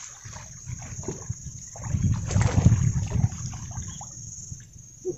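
Wind buffeting the microphone with a low rumble, over a steady high-pitched insect drone. A louder rush of noise comes about two seconds in and lasts about a second.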